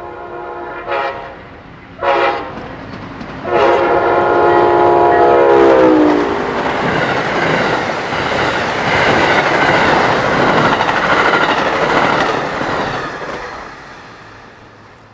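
Amtrak Silver Star passenger train passing at speed. The locomotive's multi-chime horn sounds two short blasts and then a long one, whose pitch drops as the locomotive goes by. The cars then rumble and clatter past on the rails for several seconds before fading away near the end.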